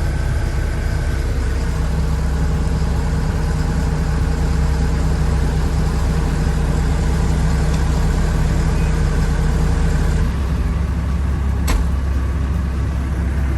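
Case CX57C mini excavator's diesel engine idling steadily, heard inside the cab. About ten seconds in, part of the drone drops away, and a single click follows a second and a half later.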